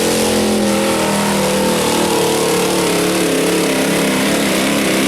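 A pulling truck's engine running hard at high revs, its pitch wavering up and down as the revs rise and fall.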